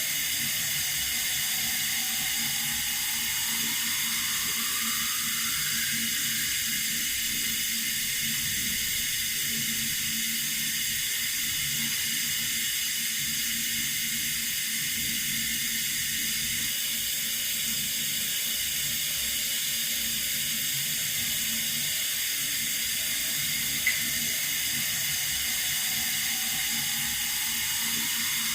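Water running steadily from a tap, an even rushing hiss. A faint tone rises slowly in pitch near the start and again near the end, and there is one brief click late on.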